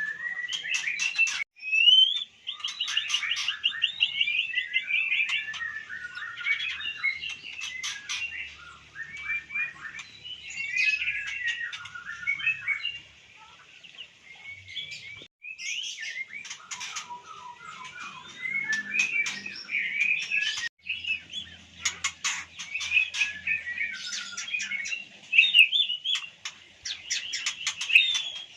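White-rumped shama (murai batu) singing a varied, continuous run of chirps, whistles and trills, mixed with sharp clicks. The sound drops out briefly a few times.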